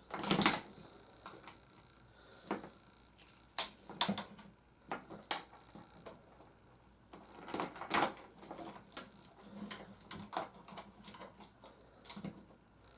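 Scattered clicks, taps and light rustles of toy packaging being handled: plastic trays and cardboard knocked and shifted at irregular intervals.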